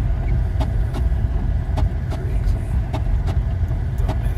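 Car driving on a snow-covered road, heard from inside the cabin: a steady low road and engine rumble with sharp clicks about every half second.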